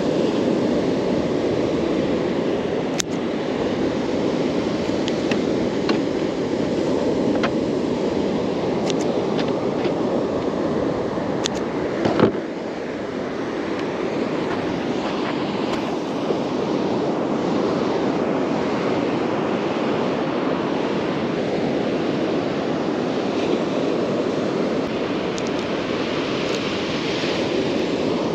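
Steady rush of surf and wind on the microphone, with a few light clicks and one brief knock about twelve seconds in.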